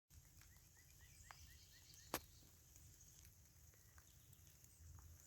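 Faint outdoor ambience: a bird gives a quick run of about seven short chirps in the first two seconds, and a single sharp click comes just after two seconds in.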